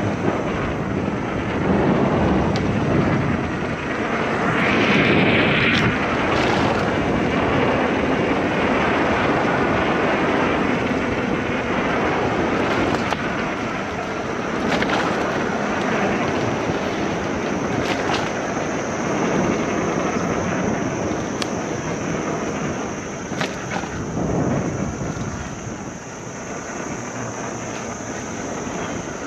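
Riding noise of an electric mountain bike on a trail: a steady rush of wind on the camera microphone and tyre noise, with a few brief clicks and knocks along the way.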